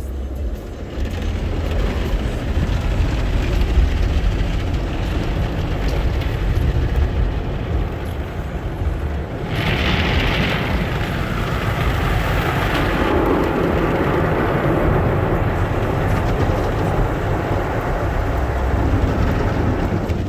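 Automatic car wash machinery running around the car: a steady low rumble, with a loud hiss of spray starting about halfway through and lasting a few seconds.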